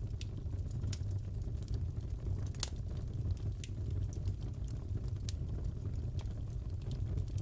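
Crackling fireplace: wood fire burning with a steady low rumble and irregular sharp pops and snaps, one louder pop about two and a half seconds in.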